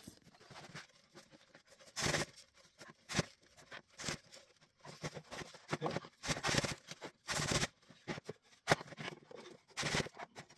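Irregular knocks and scrapes of wooden pieces being handled and worked free after glue-up, about a dozen sharp strikes spaced unevenly.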